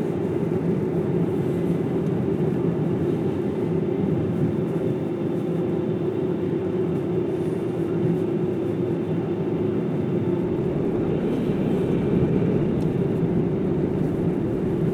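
A car driving at steady speed: an even drone of tyre and engine noise with no change in pitch.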